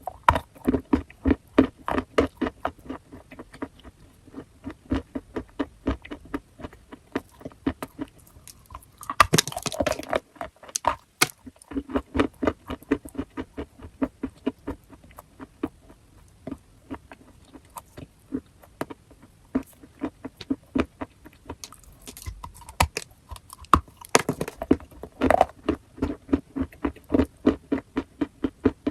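Close-miked chewing of chalk: a fast, steady run of dry crunches, several a second. Twice, about nine seconds in and again near twenty-four seconds, there is a louder, longer, grittier burst.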